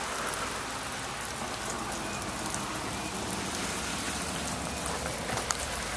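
Sleet pattering steadily, with a few sharp ticks of pellets striking hard surfaces close by.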